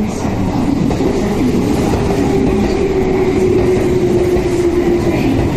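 Meitetsu electric train pulling in along the platform at close range: wheels rumbling on the rails, with a steady motor whine that comes in about a second and a half in and fades just before the end.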